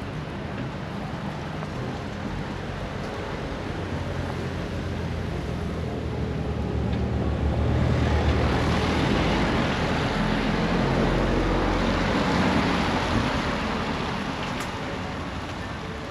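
A vehicle passing by: a low rumble that swells over several seconds, is loudest in the middle, and fades away near the end.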